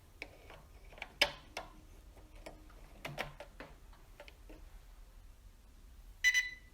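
Irregular light clicks and knocks, as of small objects being handled, then a short high-pitched tone near the end.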